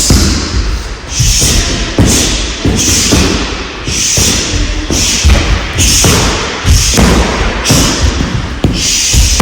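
Punches and kicks landing on a rolled-up training mat: a steady run of loud thuds, about one or two a second.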